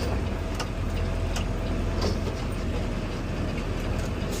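Mack LR Electric garbage truck driving, heard from the driver's cab: a steady low rumble of road and drivetrain noise with a faint steady whine and a few scattered rattles.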